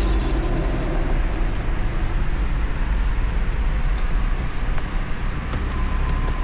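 Steady rushing of a river flowing through a concrete tunnel, with a few light clicks scattered through it.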